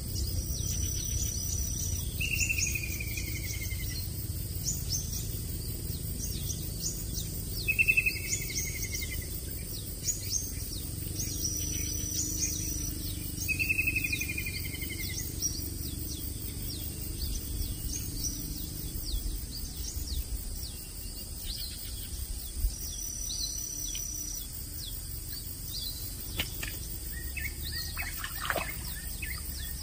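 Wild birds calling over a swamp: one bird repeats a short falling call about every five or six seconds, amid many brief high chirps, over a steady high-pitched hiss and a low rumble.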